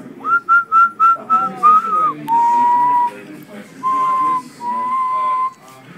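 A person whistling: five quick short notes, then a slightly longer note, then three long held notes a little lower in pitch.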